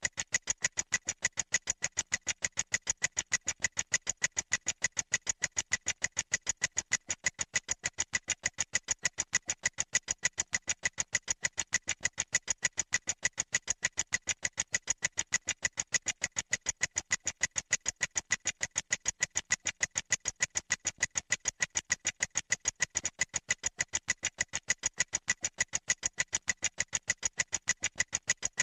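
Clock ticking sound effect: sharp, even ticks, several a second, in a steady unbroken rhythm.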